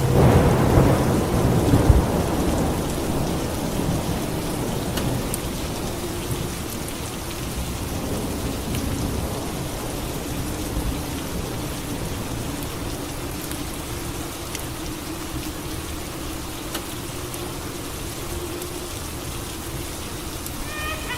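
A thunderclap at the start that rumbles away over a few seconds, then steady rain.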